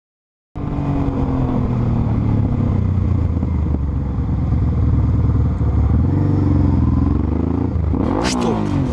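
Motorcycle engine running while riding, its pitch rising and falling with the throttle. A few short, sharp noises near the end.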